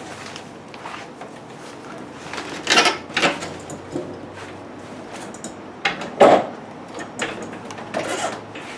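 A series of short scrapes and bumps from a stainless steel Whirlpool refrigerator being handled and shifted on the floor, loudest a little before 3 seconds in and again just after 6 seconds.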